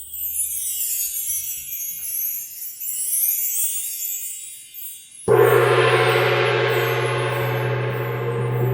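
Sound-bath instruments ringing. A high, shimmering metallic ringing dies away over the first five seconds, then a deep tone is struck suddenly about five seconds in and rings on, sustained.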